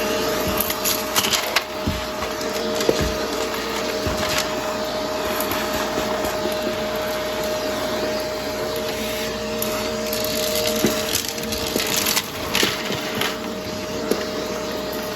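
Vacuum cleaner running with a steady motor whine while it sucks up crunchy dry debris, which crackles and cracks irregularly, in a thick cluster about twelve seconds in.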